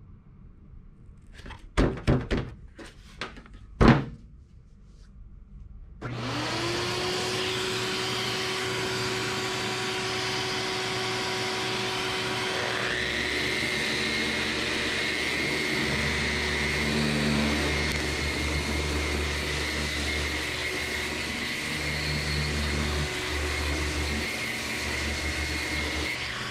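A few knocks, then an electric sander with 60-grit paper starts up, rising in pitch, and runs steadily, sanding a bare aluminum hatch lid to prepare it for contact cement. A higher whine joins about halfway through, and the sound cuts off suddenly near the end.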